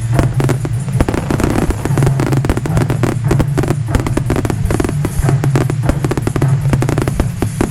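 Fireworks bursting and crackling in a rapid, continuous barrage, with music playing underneath.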